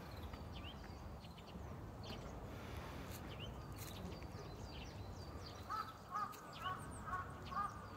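Birds calling: small birds chirping high and thin throughout, and from about three-quarters of the way in a larger bird gives a quick run of short repeated calls, about three a second.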